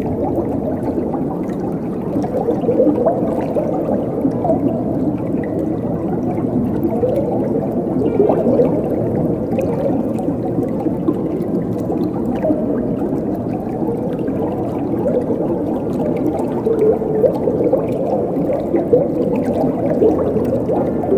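Flowing water gurgling steadily, a dense, low-pitched babble with many small bubbling blips.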